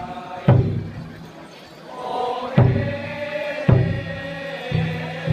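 Voices chanting a long held line, over four or five sharp heavy beats spaced about one to two seconds apart.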